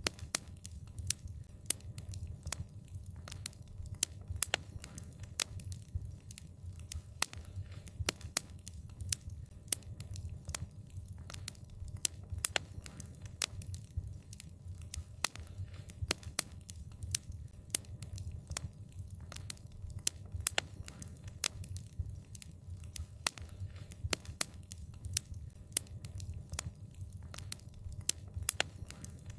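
Wood fire crackling: frequent, irregular sharp pops and snaps over a low, steady rumble.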